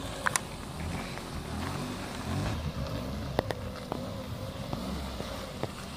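A small car's engine running at low revs as the car creeps slowly during a parking manoeuvre, with a few faint clicks.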